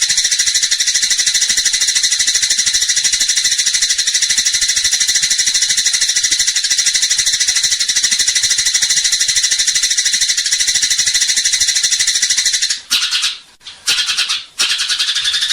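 Eurasian tree sparrows (burung gereja) giving their fighting calls: a loud, fast, unbroken stream of high chirps. The stream breaks off briefly twice near the end.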